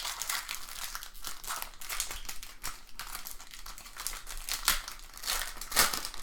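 Crinkling and tearing of a baseball card pack's wrapper as it is handled and opened, a continuous crackly rustle that swells louder near the end.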